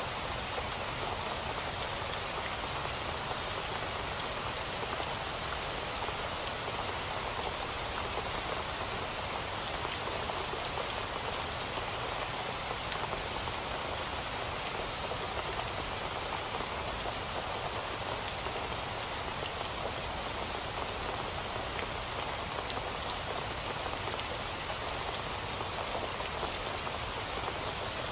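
Steady rain falling on a surface, a constant even patter of many small drop ticks with no thunder.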